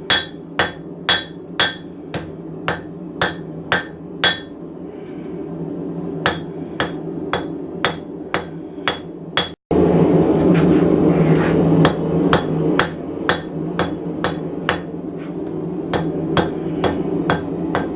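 Blacksmith's hand hammer striking hot steel on an anvil, about two blows a second with a ringing note, with a pause of a couple of seconds after the first run of blows. About ten seconds in the sound cuts out for an instant, after which the blows go on over a steady low noise.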